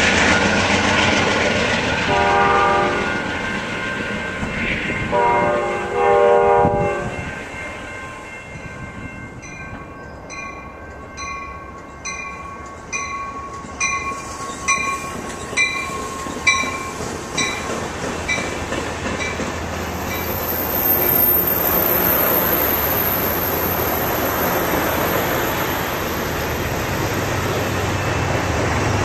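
Amtrak passenger train: two blasts of the locomotive horn in the first seven seconds, then a grade-crossing bell dinging about one and a half times a second, then bilevel passenger cars rolling past on the rails.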